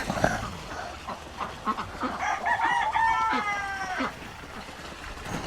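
A rooster crows once: a call of about two seconds that starts with a few short notes and ends in a long held note falling slightly in pitch.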